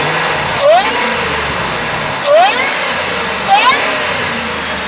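2002 Ford Lightning's supercharged 5.4-litre V8 idling and blipped three times, its supercharger whine rising sharply in pitch with each quick rev.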